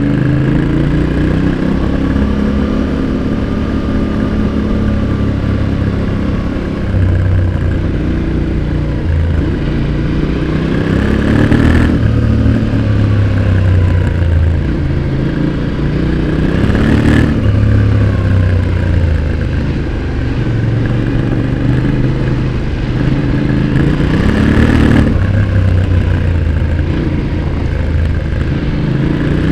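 Yamaha Ténéré 700's 689 cc parallel-twin exhaust under hard riding, the revs rising and falling continuously. Three times the pitch climbs and then breaks off sharply, as at a gear change.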